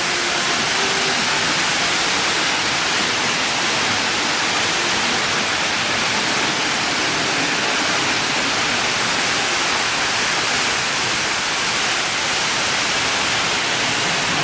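Steady rush of falling water, even and unbroken throughout.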